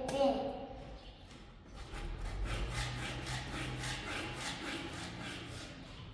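Rhythmic rubbing or scraping strokes, about four to five a second, starting about two seconds in.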